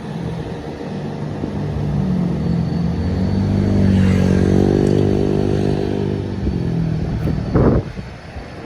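Hino truck's diesel engine pulling past, growing louder to a peak about four seconds in, its pitch bending as it goes by, then fading. A short loud sound comes near the end.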